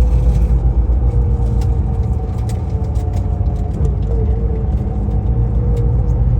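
Motor vehicle running: a steady, heavy low rumble of engine and road noise with a faint wavering whine above it.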